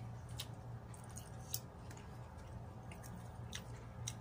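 A person chewing a mouthful of food with lips closed: soft wet mouth smacks and about half a dozen short clicks scattered through.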